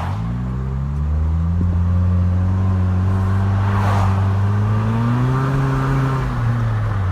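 2013 Nissan Versa's four-cylinder engine running loud and raspy through an exhaust pipe that has rusted out and snapped at the flange, so the exhaust escapes ahead of the muffler. The revs climb at the start and hold, rise once more about five seconds in, then ease back.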